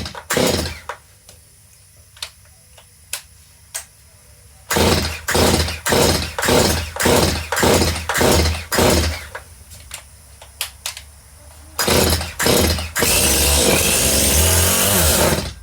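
Stihl MS181 two-stroke chainsaw being pull-started repeatedly, catching in short sputters, then running for about two and a half seconds near the end before cutting out suddenly. The owner puts its failure to keep running down to a fuel problem.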